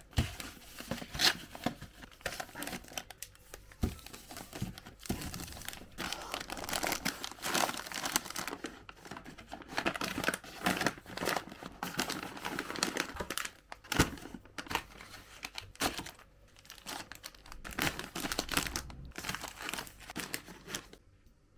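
Packaging crinkling and rustling as it is handled, with some tearing; irregular clusters of crackles and sharp clicks that die down near the end.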